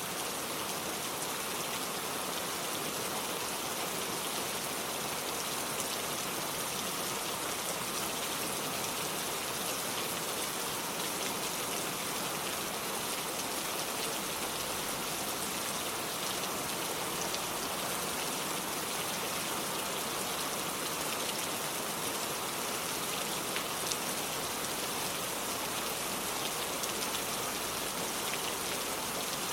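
Steady rain falling, an even hiss dotted with the fine patter of individual drops.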